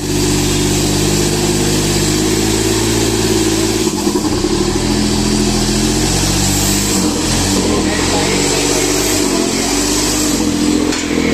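John Deere tractor's diesel engine working hard under load, pulling a train of four trolleys, its pitch shifting and dipping a few times as it labours.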